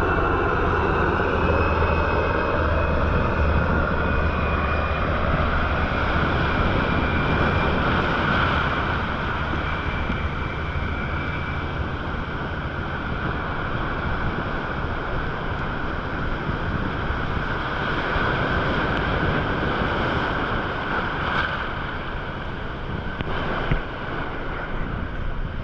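Steady rushing ocean water noise, with a low hum that fades out over the first eight seconds or so and a couple of short knocks near the end.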